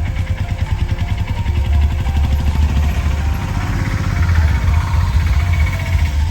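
Fast, loud drumming from a temple percussion ensemble, beating without pause, with a melody line running above it.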